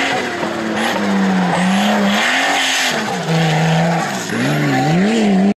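Off-road race vehicle's engine revving up and down repeatedly under hard driving, with tyre and terrain noise. The sound cuts off abruptly just before the end.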